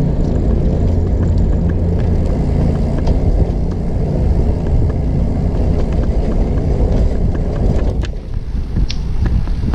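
Low rumble of wind buffeting the microphone and the trike's rolling noise while riding along a campground road, with scattered light ticks; the rumble eases a little about eight seconds in.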